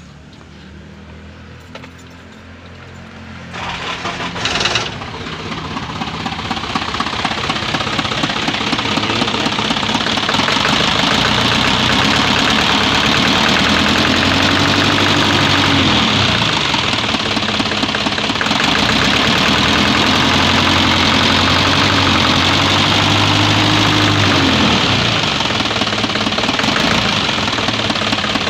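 Isuzu 4HF1 four-cylinder diesel truck engine started about three and a half seconds in, then running and revved up and back down twice. It runs rough and misfires, a fault traced to a defective injector nozzle.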